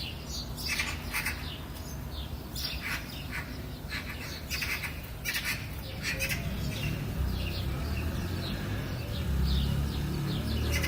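Several wild birds giving short chirps and squawking calls, thinning out after about six seconds, while a low rumble builds underneath and grows louder toward the end.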